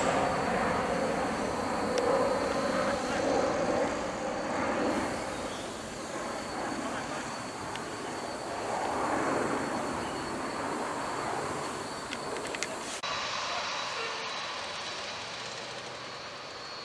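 Airbus A330-200 jet engines, a steady rushing roar that slowly fades as the airliner moves away. A thin, steady high-pitched whine sits underneath, and the sound changes abruptly about thirteen seconds in.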